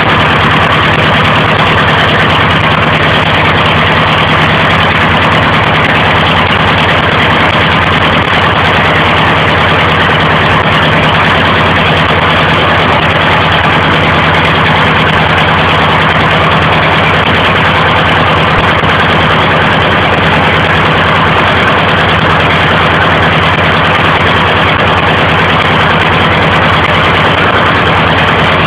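DT-75 crawler tractor's SMD diesel engine running steadily at idle after start-up, with no change in speed.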